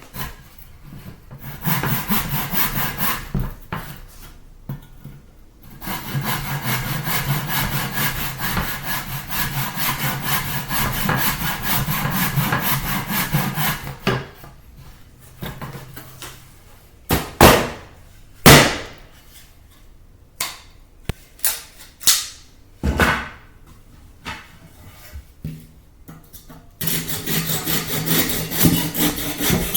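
A saw cutting through a flooring board in long, steady runs of fast strokes. In a pause in the cutting there are three sharp knocks.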